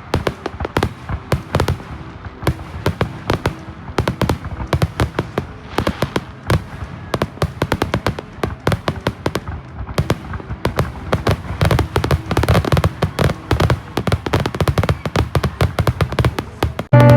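Fireworks going off: a rapid, irregular run of sharp bangs and crackles, thickest about two-thirds of the way through.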